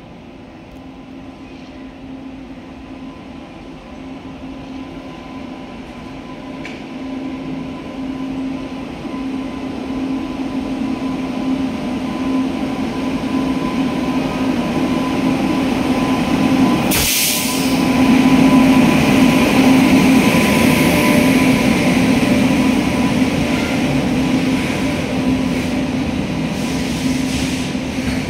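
Electric-hauled goods train approaching and running through a station: a steady hum grows louder as the locomotive nears. A brief sharp burst of noise comes a little over halfway through, and after it the rumble of the loaded wagons rolling past close by.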